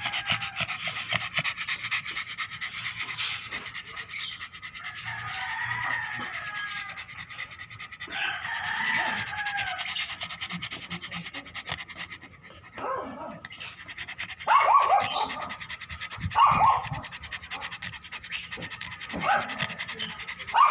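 Dog vocalising in short pitched calls, loudest in a few bursts in the second half, over scuffling and clicking noise.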